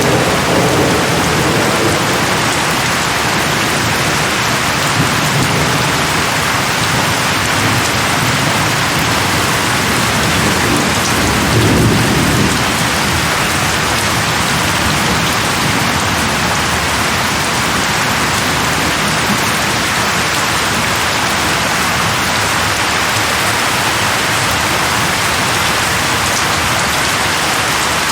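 Heavy monsoon rain pouring steadily, with a low rumble at the start and a louder rumble about twelve seconds in.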